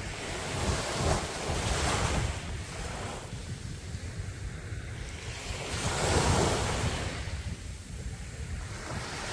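Sea waves breaking and washing up a beach, swelling twice about four seconds apart, over a steady low rumble of wind on the microphone.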